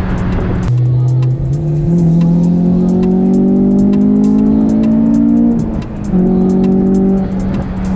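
A car engine accelerating: its pitch climbs steadily for a few seconds, drops suddenly as at a gear change, then holds steady. Background music with a steady beat plays over it.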